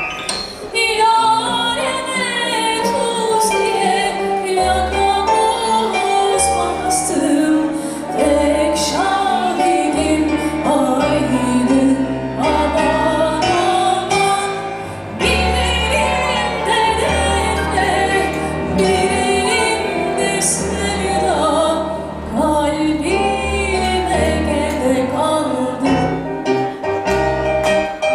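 A woman singing a song live with instrumental accompaniment including piano, over sustained low bass notes.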